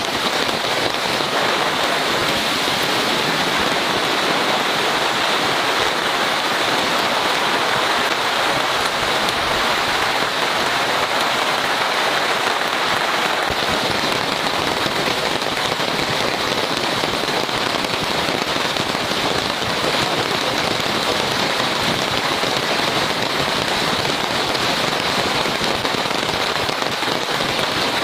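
Heavy rain falling steadily, a dense, even downpour with no let-up.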